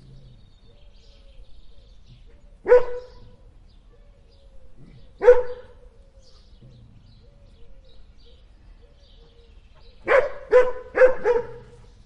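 Puppy barking in short, high barks: one about three seconds in, another about five seconds in, then four quick barks in a row near the end.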